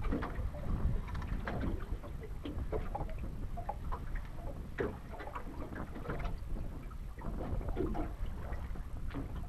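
Wind rumbling on the microphone, with water lapping and scattered light knocks against a small fishing boat.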